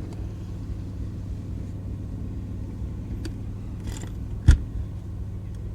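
Car engine idling, a steady low hum, with a short hiss and then a single sharp knock about four and a half seconds in.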